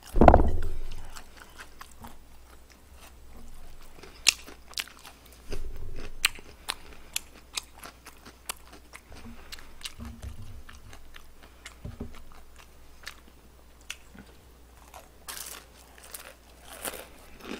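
A man chewing and biting crunchy fried chicken close to the microphone: scattered small crunches and mouth clicks, with a loud short thump right at the start and a few softer low thumps later.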